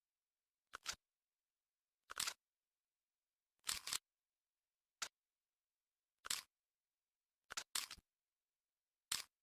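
Short, sharp mechanical clicks and clacks of SCAR-L 5.56 rifle parts being handled and fitted together, about eight of them spaced a second or so apart.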